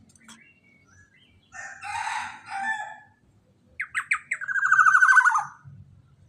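Black-naped oriole (kepodang emas) calling: a harsh, raspy call about a second and a half in, then a quick run of sharp notes that runs into a loud buzzing trill, falling slightly in pitch and stopping suddenly.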